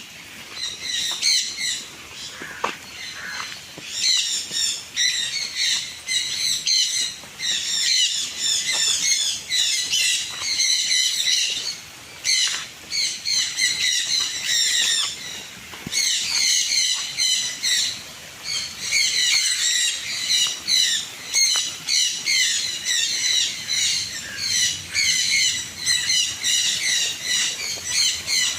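A flock of aviary birds chattering and squawking, with dense rapid high chirps overlapping almost without a break and a couple of brief lulls.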